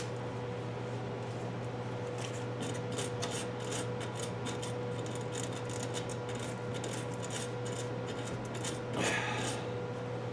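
Light, irregular metallic clicking and scraping of hand tools working on the welded bolt, with a short, louder scrape about nine seconds in, over a steady electrical hum.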